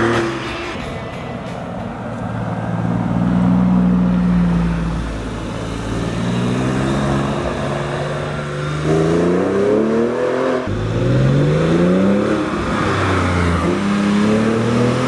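Porsche 996 Carrera 4S's naturally aspirated flat-six through an aftermarket exhaust, accelerating hard: the engine note rises in several sweeps, dropping back abruptly at each gear change.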